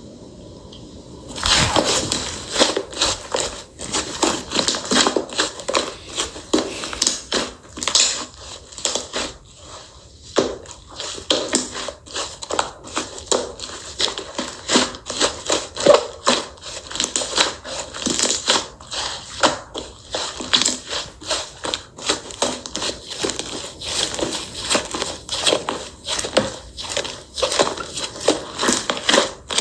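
Slime being pressed and worked by hand, making a dense, irregular run of crackling, popping clicks that starts about a second and a half in.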